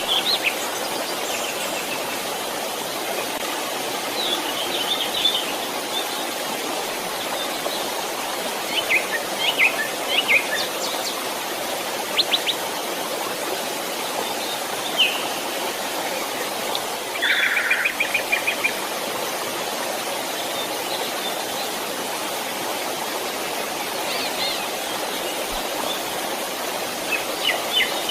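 Steady rush of a flowing stream, with small birds chirping here and there above it and one bird giving a quick rattling trill about two-thirds of the way through.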